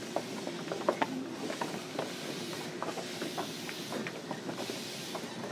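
Cabin noise inside a JR Kyushu 305 series electric train car: a steady rumble and hiss with scattered light clicks and rattles.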